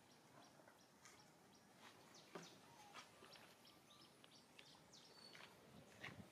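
Near silence: faint outdoor background with scattered short, high bird chirps and a few soft clicks.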